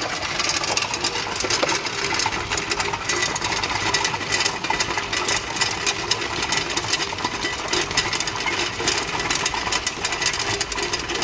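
1-ton-per-day tube ice machine running: a steady mechanical noise with a dense, irregular clatter of rapid clicks.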